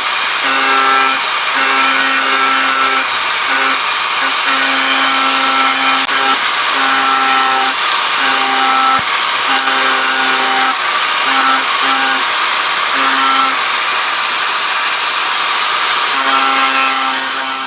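A small electric power tool running with a steady hiss, its motor hum coming and going in short spells of about a second.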